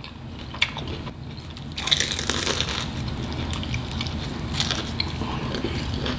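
Crispy deep-fried bang bang shrimp egg roll bitten into with a loud crunch about two seconds in, then chewed with many short crunches.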